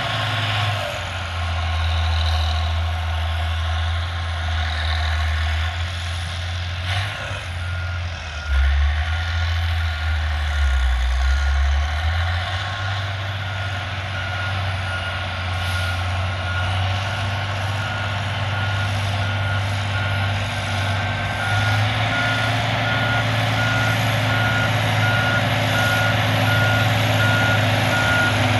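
Heavy diesel road machinery running, its engine note shifting as the revs change, with a reversing alarm beeping steadily from about a quarter of the way in as the machine backs up.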